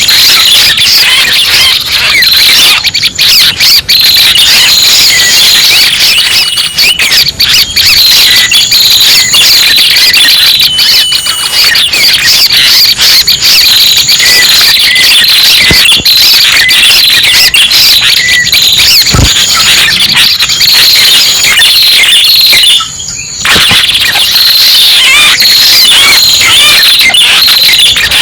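Loud, dense bird lure recording of red-headed prenjak calls: rapid high chirps and trills without a break, with a brief dip about 23 seconds in.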